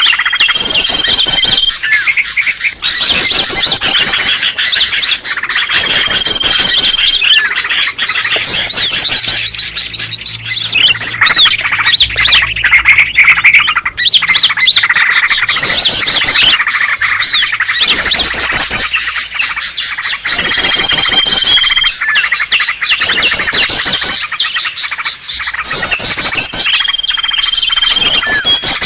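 Green leafbirds (cucak ijo) calling in a noisy, agitated flurry of rapid chirps and chattering trills, broken now and then by a long steady whistle. This is the excited 'ribut' calling used as a lure to draw wild leafbirds in.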